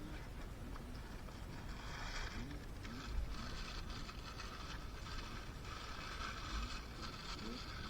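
KX80 two-stroke dirt-bike engine running under riding load, with several short rising revs as the throttle is opened, heard through wind and rumble on a helmet-mounted microphone. A single dull thump about three seconds in.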